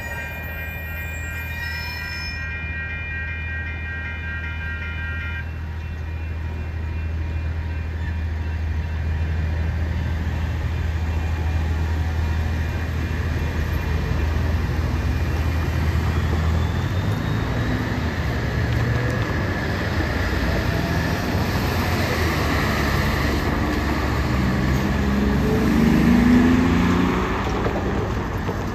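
A train passing the crossing and moving off: high wheel squeal dies away in the first few seconds, and a low steady rumble stops about 16 seconds in. Road traffic then crosses the tracks, with a truck engine revving up near the end, the loudest moment.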